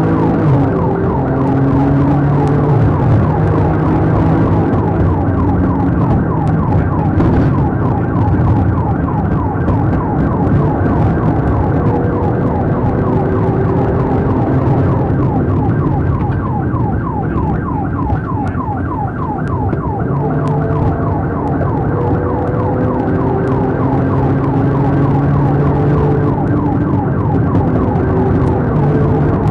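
Police car siren sounding continuously during a pursuit, sweeping up and down in pitch and going into a fast yelp in the middle, over vehicle road noise.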